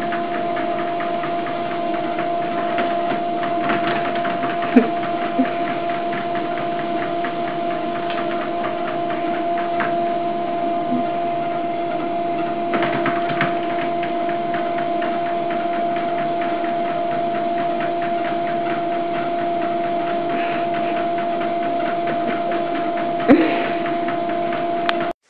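Motorized treadmill running at a steady speed, its motor giving a constant whine. A few short knocks sound over it, the loudest near the end, as cats walk on and off the moving belt.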